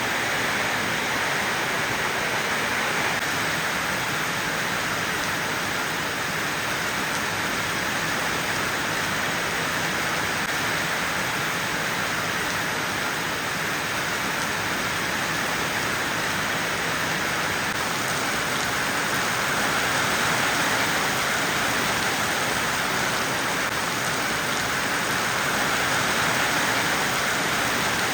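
Heavy rain falling steadily, an even dense hiss without breaks.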